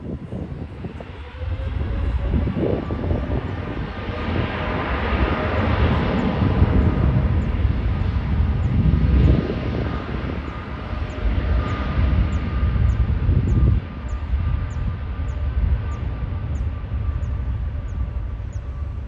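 Boeing 787 jet engines running loud: a rumbling roar with a steady whine on top. It grows louder about a second and a half in and drops off suddenly near fourteen seconds.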